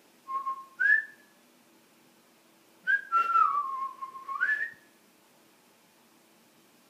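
Whistling: two short whistled notes, the second rising, then a longer whistled phrase that dips in pitch and climbs again at its end.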